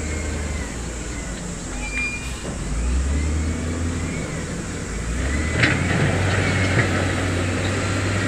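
Heavy diesel earthmoving machinery running, its engine drone shifting pitch a few times, with sharp metallic knocks about two seconds in and again near six seconds, and a faint high whine rising and falling over it.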